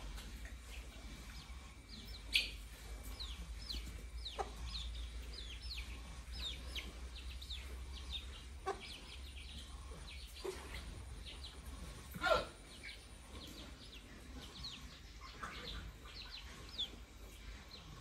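Birds chirping: many short, high calls, each falling in pitch, with a few louder calls sweeping down, the loudest about twelve seconds in. A low steady hum runs underneath.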